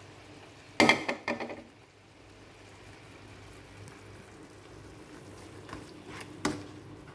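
Tomato sauce cooking faintly in a nonstick pan, with a quick clatter of the spatula against the pan about a second in and a single knock near the end.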